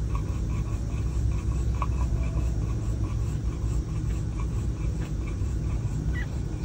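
Steady low rumble of a vehicle's engine idling, heard from inside the cab.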